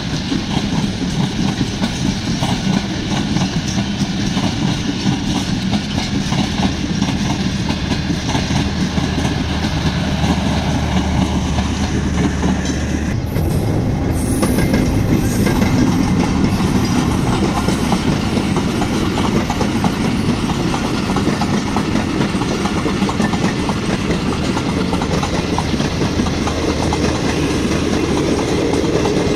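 Pakistan Railways express passenger coaches running past at speed, the wheels clattering over rail joints with a low steady hum beneath. The sound changes abruptly about 13 seconds in and carries on as loud train noise.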